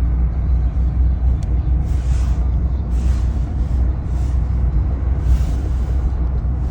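Steady low rumble of a vehicle on the move, with several brief hissing swells.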